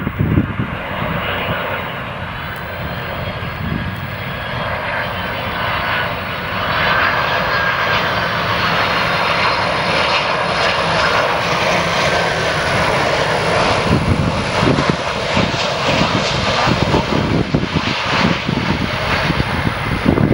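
Jet airliner's engines passing, a steady rushing noise with a whining tone that shifts in pitch, growing louder about a third of the way in.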